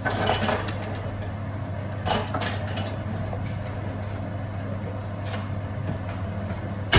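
A frying pan being shaken on the stove, clattering near the start and again about two seconds in, with a few lighter clinks later. A steady low hum runs underneath.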